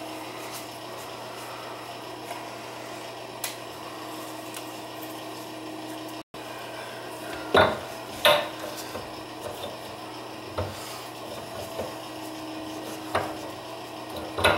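Hand tools clinking and knocking against metal plumbing fittings, two sharp knocks a little past the middle and a few lighter taps after, over a steady low hum.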